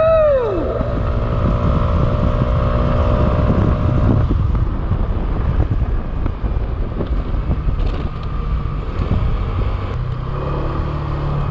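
Moped engine running while riding, with heavy wind rushing over the microphone. The engine's steady note is clearer in the first few seconds, then the wind covers most of it.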